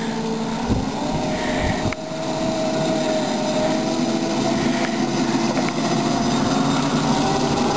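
Small engine of a ride-on backyard railroad locomotive running steadily under way, with a couple of dull knocks in the first two seconds.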